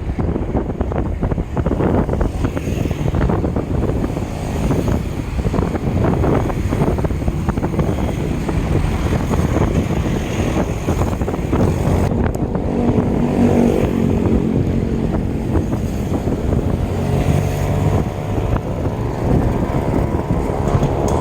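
Wind buffeting the microphone of a moving bicycle, a steady rough rush. About halfway through, the hum of a motor vehicle's engine joins it and rises in pitch near the end.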